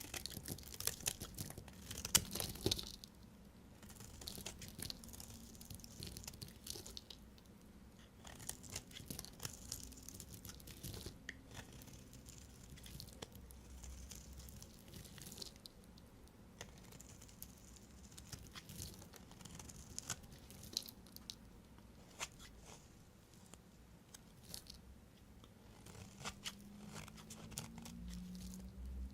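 A knife cutting through dry bars of soap, with irregular crisp crackles and crunches and short scraping rushes.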